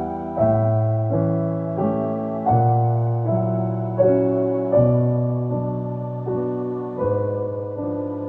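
Slow solo piano music: soft chords struck about once every three-quarters of a second over held bass notes.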